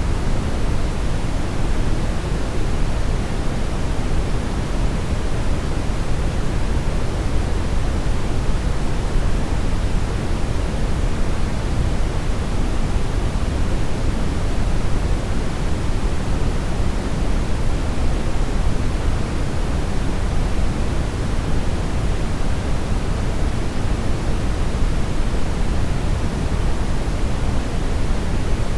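Brown noise: steady, even rushing noise weighted heavily toward the low end, with no change or events.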